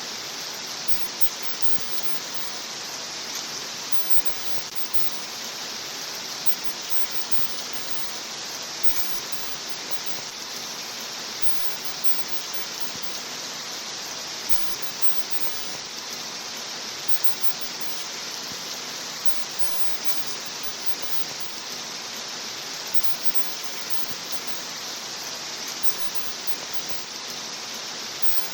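Steady rain: an even, unbroken hiss of rainfall that stays at one level throughout.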